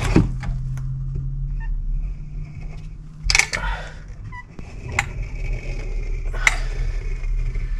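Four sharp knocks, one to two seconds apart, over a steady low hum.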